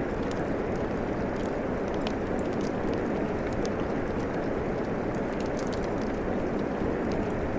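Steady rain falling, mixed with a fireplace's wood fire crackling: a constant low, even rush of rain with frequent small, sharp crackles and pops scattered over it.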